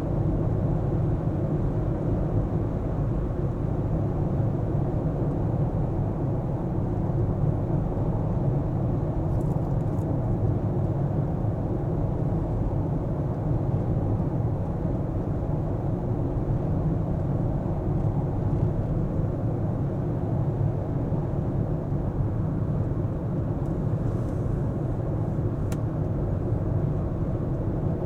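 Steady, low road and engine noise of a car driving at an even pace, with two faint brief ticks.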